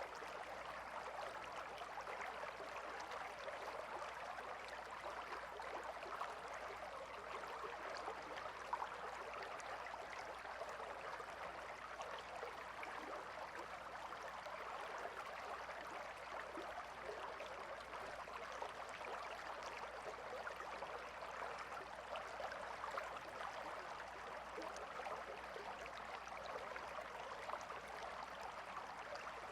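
Calm river flowing: a steady, even rush of running water.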